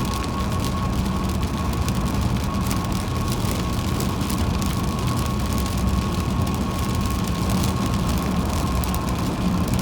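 Car driving on a wet highway in the rain: steady road and tyre noise with a constant thin whine and many small ticks.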